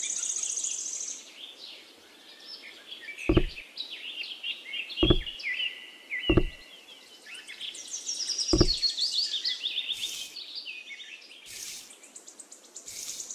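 Small songbirds chirping and twittering throughout, with four short, dull knocks about 3, 5, 6½ and 8½ seconds in as model clay walls are set down on the diorama base.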